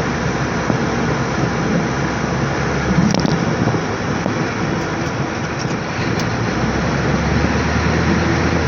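Ford 6.9-litre IDI diesel V8 running steadily as the 1986 F-250 drives along in four-wheel-drive low, heard from inside the cab.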